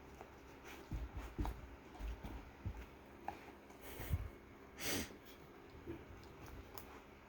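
Eating sounds: scattered soft clicks and low thumps, with one short snorting breath about five seconds in.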